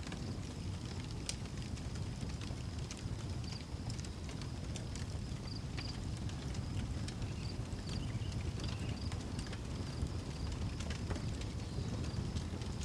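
Outdoor wood fire crackling, with sharp irregular pops over a low rumble. Crickets chirp steadily in a high, even pulsing tone behind it.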